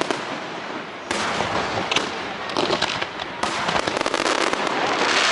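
Fireworks display: shells bursting and crackling, with a fresh burst about a second in and another about three and a half seconds in, the crackle growing denser towards the end.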